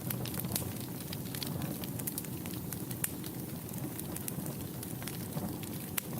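Wood fire burning in a fireplace: a steady low rumble of flames with frequent irregular sharp crackles and pops, one louder pop near the end.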